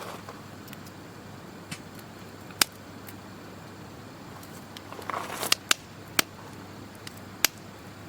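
A few sharp, separate clicks and pops over a low steady background, with a brief cluster of rustling and clicks about five seconds in.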